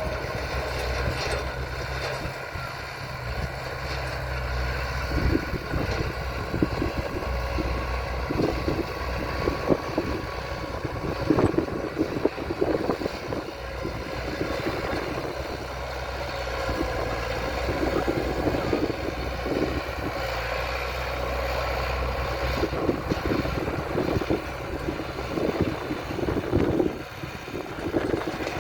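Heavy diesel earthmoving machinery running with a steady low engine drone, joined after a few seconds by irregular clanks and knocks.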